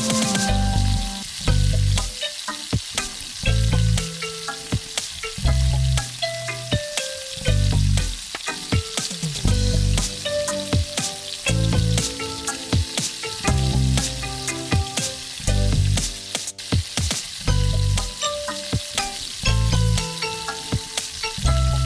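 Chicken curry frying and sizzling in a pan while it is stirred, with frequent short clicks and scrapes of the utensil against the pan. Background music with a regular bass beat and a chiming melody plays along.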